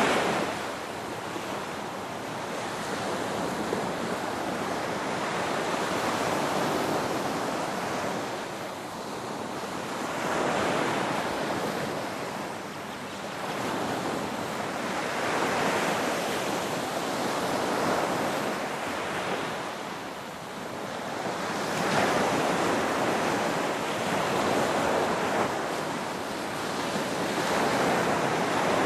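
Ocean waves surging and washing in, the rush swelling and falling back every few seconds.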